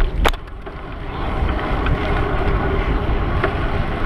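Wind rushing over the camera microphone on a moving bicycle, a steady low rumble, with two sharp clicks right at the start.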